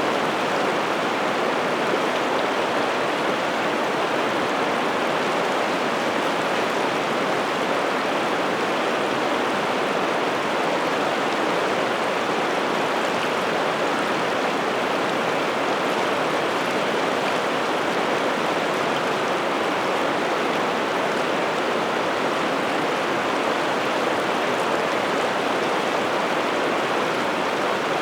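Water of the Piteälven river rushing steadily, an even, unbroken flow noise.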